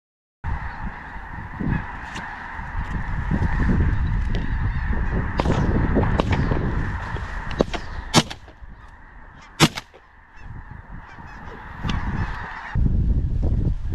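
Canada geese honking steadily, cut off suddenly near the end, with two sharp cracks about a second and a half apart partway through.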